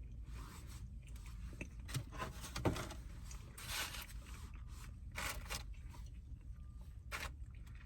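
Close-up mouth sounds of eating: irregular crunching and chewing with a few small clicks and scrapes.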